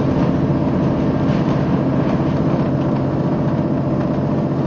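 A diesel train's engine running steadily with a constant low rumble, heard from inside the carriage.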